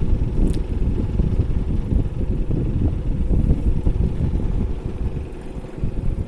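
LG split AC indoor unit running smoothly, its blower's airflow giving a low, unsteady rumble with a faint steady hum and no rattle, its blower wheel nut freshly tightened. A small click about half a second in.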